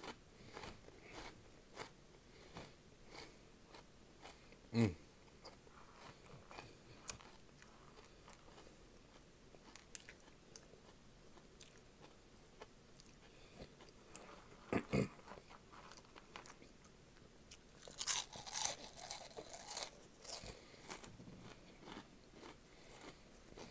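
A person biting and chewing crunchy Flamin' Hot snacks, crisp crunches coming in irregular bursts, busiest in a run a few seconds before the end.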